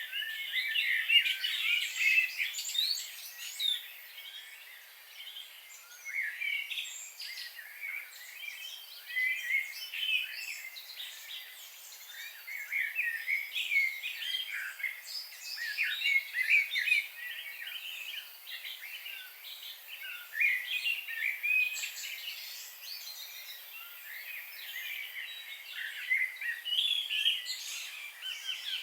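Songbirds chirping and singing in a dense run of short, quick high notes and trills that overlap and follow one another without pause.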